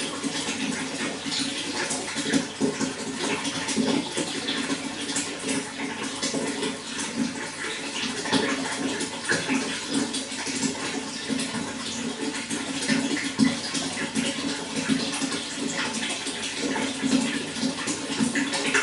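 Running water flowing steadily, with a continuous patter of small irregular splashes and a low, full rush underneath.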